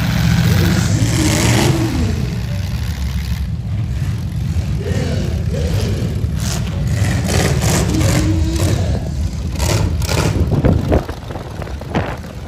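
Several demolition derby cars' V8 engines running and revving together in a dense low rumble. A string of sharp bangs comes in the second half.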